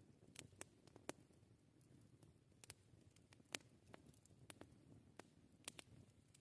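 Wood campfire crackling: about a dozen faint, irregular sharp snaps and pops, the loudest about three and a half seconds in, over a soft low hiss.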